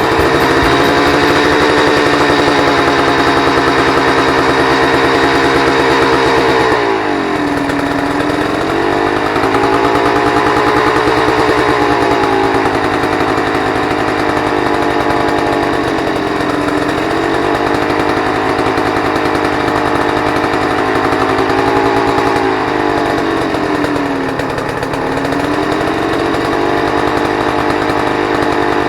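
Honda CRM250 two-stroke single-cylinder engine running on its own at a high, steady idle. The revs dip briefly about seven seconds in and sag a little twice more later, each time climbing back up. The idle won't come down, the hanging-revs symptom the uploader reports.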